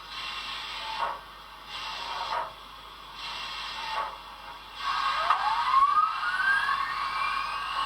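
Steam sound effects from the Paragon4 sound system in an HO-scale Pennsylvania Railroad E6 Atlantic model locomotive. A hiss pulses on and off about once a second. About five seconds in, a steadier hiss comes in with a whine that rises steeply in pitch.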